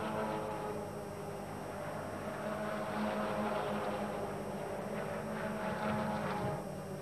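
Turbocharged Volvo race car engine running steadily at speed, a continuous engine drone.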